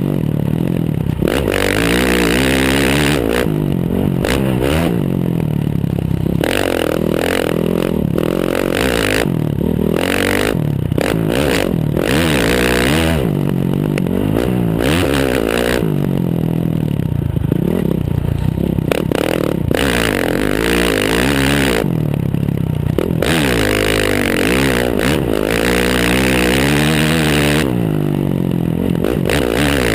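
Motocross bike's exhaust, heard up close from the rear fender, revving up hard and falling off again and again through the lap.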